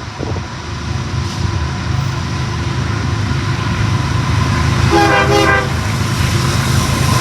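CSX diesel freight locomotives approaching with a low engine and rail rumble that grows steadily louder. About five seconds in, the locomotive gives one short horn blast.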